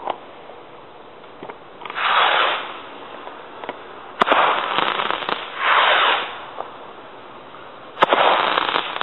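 Quiet 1.4G consumer firework rockets going off: four rushing whooshes, each swelling and fading within about a second, with two sharp cracks and scattered light crackling between them.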